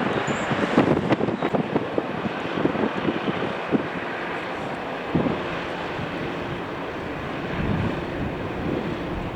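Gusty wind buffeting the microphone in irregular thumps, over the steady rushing noise of a jet aircraft's engines; the buffeting eases about halfway through.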